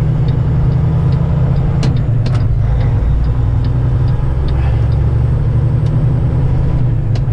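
Semi truck's diesel engine and road noise droning steadily inside the cab, with scattered light clicks and rattles.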